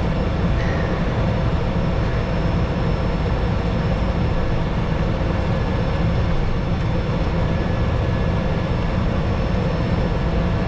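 Cessna Caravan 208B's Pratt & Whitney PT6A turboprop engine and propeller running at a steady setting, heard from inside the cockpit as a dense low rumble with faint steady whines above it.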